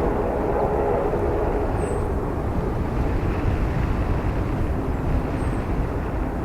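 Airliner jet engines running: a steady noise with a few humming tones that fade out over the first two seconds.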